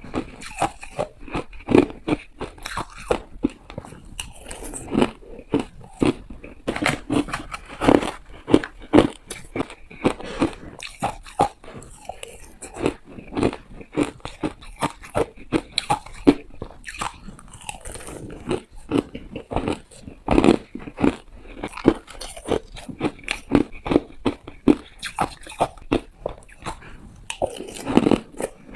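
Hard ice being bitten and crunched between the teeth: a dense, irregular run of sharp crunches, with chewing in between.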